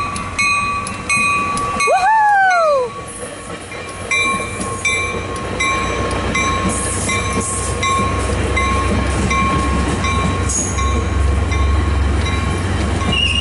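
Warning bell ringing steadily, a little under two strokes a second, as a Caltrain double-deck commuter train rolls into the station, its low rumble building from about four seconds in. About two seconds in comes a short, high whoop that rises and then falls.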